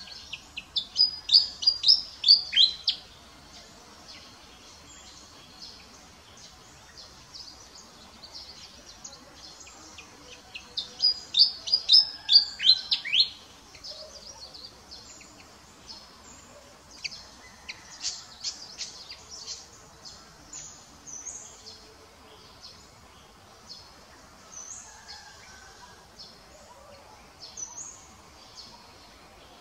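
Birds chirping: two loud runs of quick, high, falling notes, one about a second in and another about ten seconds in, then scattered fainter chirps over a soft outdoor background.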